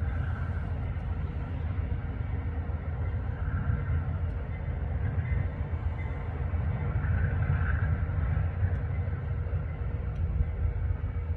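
Train passing, a steady low rumble.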